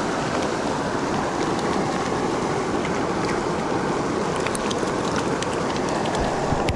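Small mountain creek rushing and burbling close by in a steady, even wash of water noise, with a few faint ticks of splashing water.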